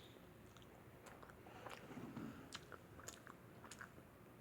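A person chewing pizza close to the microphone, faint, with small scattered mouth clicks and a soft wet chew about two seconds in.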